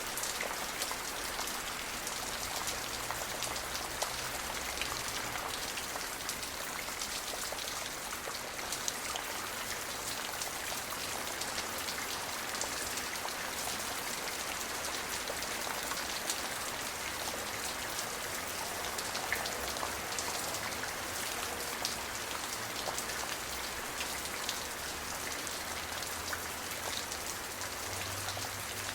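Steady rain falling, many drops pattering on a surface in a dense, even hiss with no thunder.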